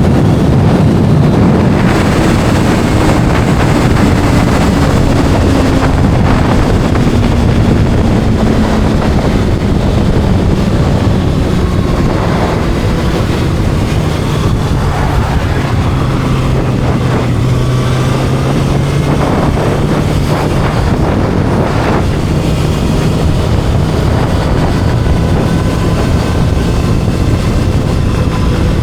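A Kawasaki inline-four sport motorcycle engine running under way, its note falling slowly over the first ten seconds and then holding steady, as the bike eases off and cruises. Heavy wind buffeting on the microphone.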